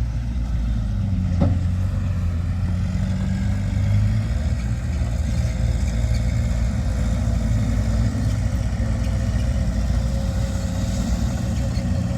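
Heavy diesel engine of earthmoving machinery running steadily, its low hum shifting slightly in pitch, with one brief click about a second and a half in.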